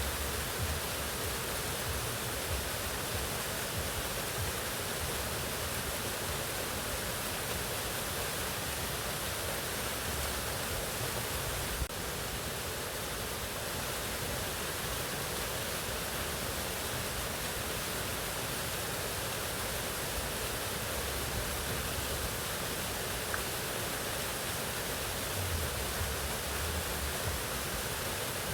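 Mountain waterfall rushing steadily, an even roar of falling water. One brief click sounds about halfway through.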